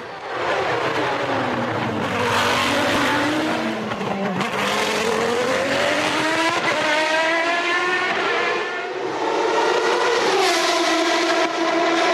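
Formula One racing car engine running at high revs. Its pitch falls about a second in and again near four seconds, climbs steadily for a few seconds, then drops sharply near the end, rising as the car accelerates and falling as it slows.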